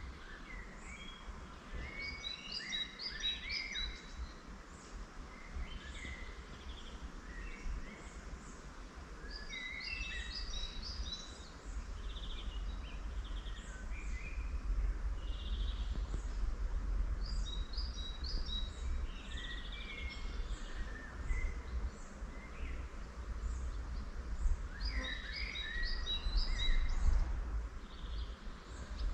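Wild songbirds singing: a burst of quick, varied chirping notes returns about every seven to eight seconds, four times, with scattered single calls in between. A steady low rumble runs underneath.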